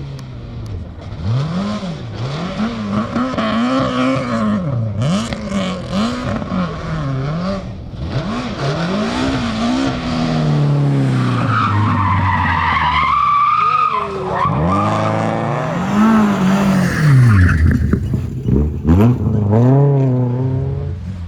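Rally car engine revving hard, its pitch climbing and dropping again every second or two as the car accelerates and lifts through the stage.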